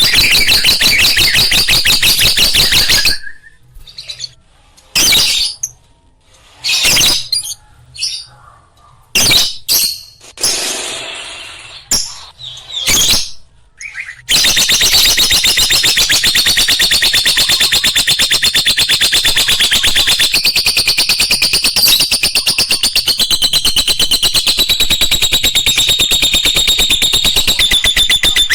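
Lovebirds chattering in a fast, continuous high-pitched stream of chirps, which breaks off about three seconds in; for about ten seconds only short, scattered sounds are heard before the dense chattering resumes and carries on.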